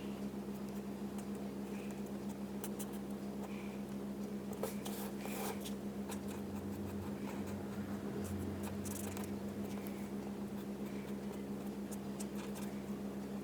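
Alcohol marker tips scratching and tapping faintly on cardstock as a stamped image is coloured in, over a steady electrical hum.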